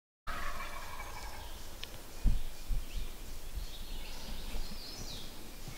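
Wild turkey gobbler gobbling once as the sound cuts in, a rattling call lasting about a second. Then come a few low thumps, the loudest about two seconds in, and faint high songbird chirps.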